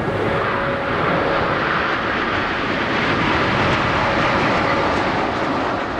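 Jet engine noise from a formation of Aermacchi MB-339 PAN jet trainers flying past: a steady, even rush of turbojet noise with no break.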